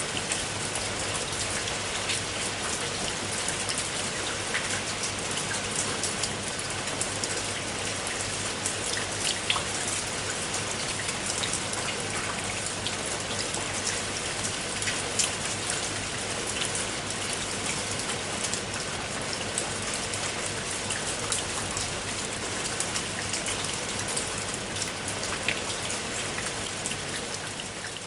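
Steady rain falling, a continuous hiss with many individual drops clicking sharply on a hard surface.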